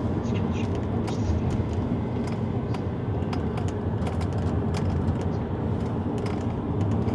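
Steady road and engine rumble inside a moving car's cabin, with scattered light clicks and rattles.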